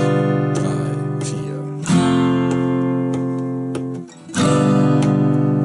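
Acoustic guitar alternating between an F barre chord and a G7 chord. Each chord is strummed once and left to ring, with new strums about two seconds in and again near the end.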